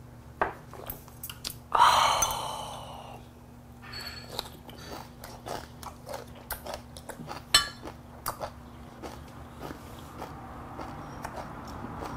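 A man chewing and crunching young-radish kimchi and fish close to the microphone, with many sharp clicks of chopsticks and dishes. About two seconds in, a loud, breathy, voiced exhale after a shot of soju.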